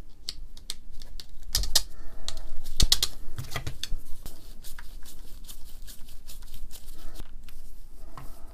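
Irregular clicks and taps of small hard parts being handled and fitted by hand while reassembling a rotary hammer, with a cluster of louder knocks about one and a half and three seconds in.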